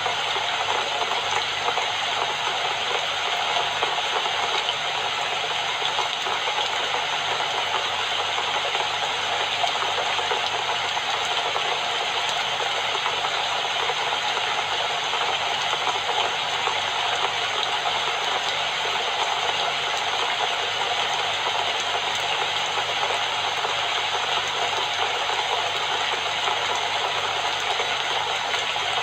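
Steady rain falling, an even, unbroken hiss of drops with no thunder or other events.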